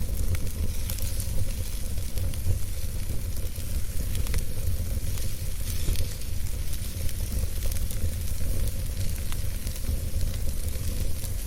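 Wood campfire burning, with many small crackles and pops over a steady hiss and a low rumble underneath.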